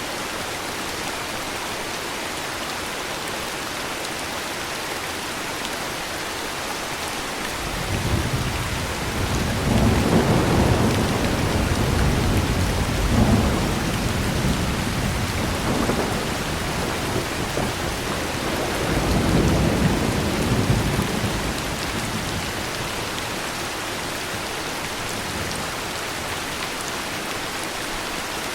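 Steady heavy rain, with a long, rolling thunder rumble coming in about a quarter of the way through. The thunder swells twice and then fades back into the rain before the end.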